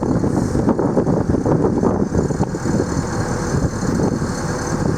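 Training boat's engine running steadily under way, heard from on board, with a continuous rushing noise over it.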